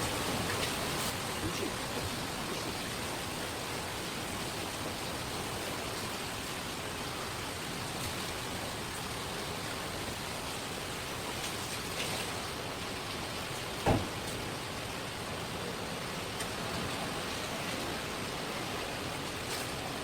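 Steady hiss of running water, with one sharp knock about fourteen seconds in.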